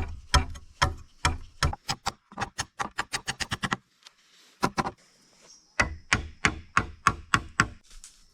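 Chopping: a run of sharp strikes, about two to three a second with some quicker flurries, breaking off about four seconds in and then starting again.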